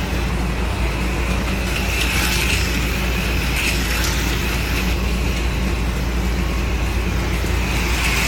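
HO-scale AFX slot cars running laps on a plastic track, their small electric motors whirring and swelling every second or two as the cars pass, over a steady low electrical hum.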